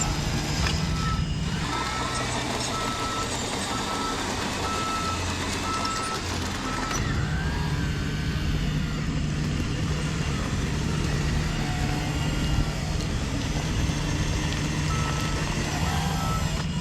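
An RC construction truck's sound module running a steady diesel-engine sound, with its reversing beeper sounding about twice a second. The beeping stops about seven seconds in and starts again near the end.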